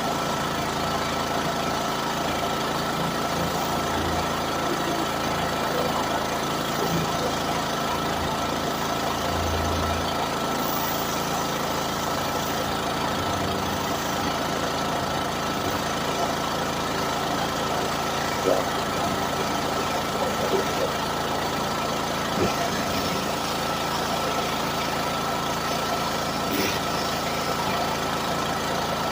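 An engine running steadily at a constant speed, with one steady higher-pitched tone held over it.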